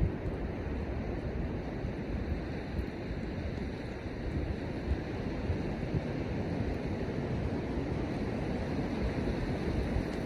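Wind buffeting the microphone over a steady wash of ocean surf, with no bird calls standing out.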